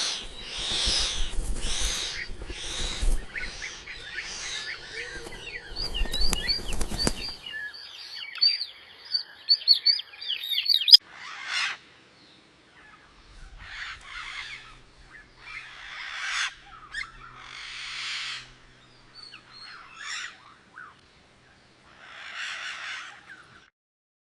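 Birds calling: for about seven seconds harsh, noisy calls over a low rumble, then a run of quick high chirps, then single harsh calls repeated every two seconds or so.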